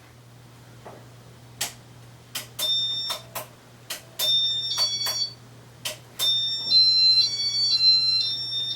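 1994 Casablanca Montclair ceiling fan's control board running its demo mode: a few sharp clicks, then groups of high electronic beeps stepping between pitches, ending in a longer alternating beep sequence, over a steady low hum. The board is pretty loud.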